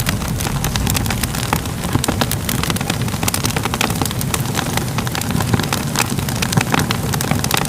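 Fire crackling: a steady low rumble of flames with many sharp crackles scattered throughout.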